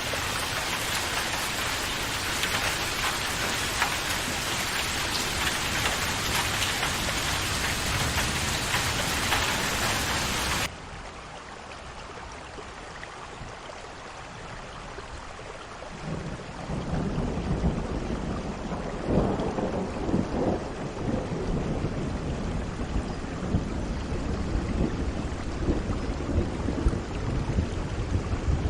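Heavy rain with a dense, steady hiss. About eleven seconds in it cuts abruptly to a quieter, duller rain recording. From about sixteen seconds, low rolling thunder rumbles in under the rain and keeps going.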